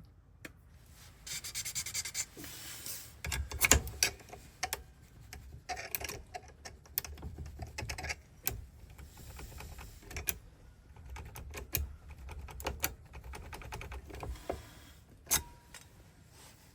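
Small metal clicks and scraping as a key is worked back and forth in a Ford 5-pin ignition lock cylinder, trying to get it to turn.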